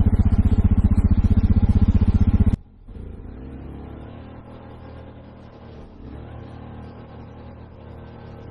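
A vehicle engine running loudly with a rapid, even pulse that cuts off abruptly about two and a half seconds in. A much quieter, steady engine hum carries on after it.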